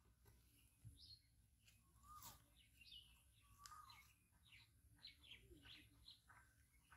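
Faint birdsong: several birds chirping in short high notes, a few each second, with an occasional short wavering whistle lower in pitch.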